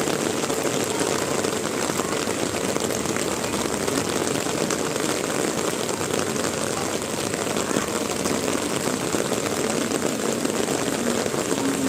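Heavy rain falling, a steady dense patter of drops.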